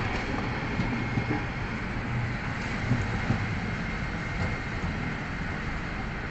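Steady low rumble of city street traffic, with a Nagasaki streetcar running along the street.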